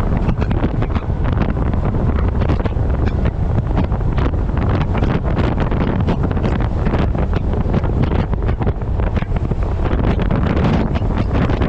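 Loud, steady wind noise buffeting the microphone of a camera strapped to the front of a moving truck.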